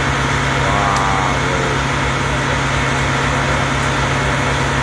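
A vehicle engine idling steadily under a constant hum, with a faint distant voice about a second in.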